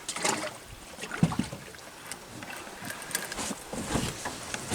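Water sloshing and splashing against a boat, with scattered light clicks and knocks and a couple of dull thuds about a second in.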